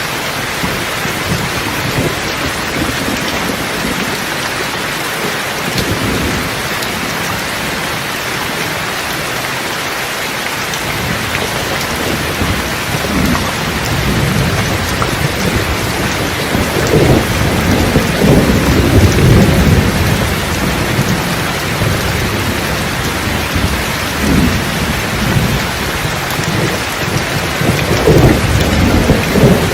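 Steady heavy rain with rolling thunder. The thunder rumbles build about halfway through, peak a little after that, and swell again near the end.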